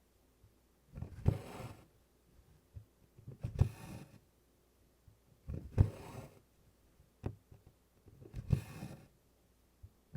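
Tent stitching on stiff 24-count Congress cloth: a needle clicks through the canvas, then the DMC floss is pulled through with a swishing rasp. This happens four times, about one stitch every two to two and a half seconds.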